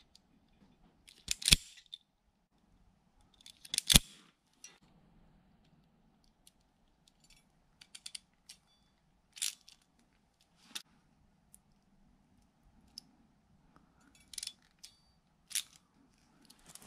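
Wire cutters snipping through the wires of an old drive-by-wire throttle body connector: several sharp snips spread out, the two loudest about a second and a half and four seconds in, with small clicks of handling between.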